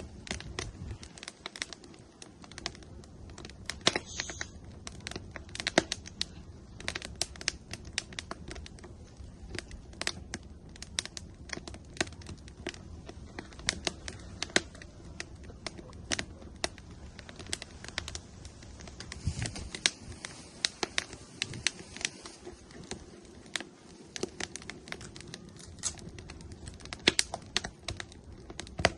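Firewood burning in an outdoor grill, crackling with frequent irregular sharp pops and snaps over a steady low rush of flame.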